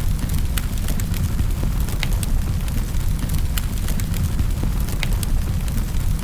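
Wood fire crackling in a fireplace: scattered sharp pops and snaps, a few each second, over a steady low rumble of the flames.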